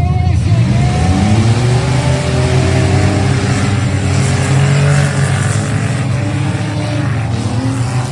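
Several bush race cars' engines running together on a dirt track, their pitch rising from about a second in as the cars accelerate.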